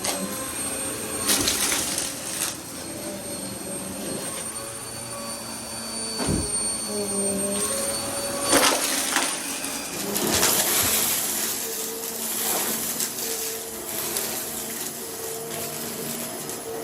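Vacuum cleaner running with a steady motor whine. Its sound swells and fades every second or two as it is pushed quickly back and forth.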